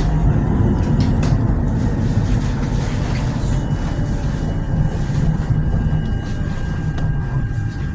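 Tram running on its rails: a steady low rumble, with a faint high whine in the middle stretch.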